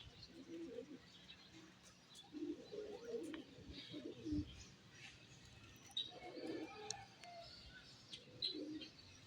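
Domestic pigeons cooing in several low, rounded bouts, with small birds chirping in short high notes between and over them.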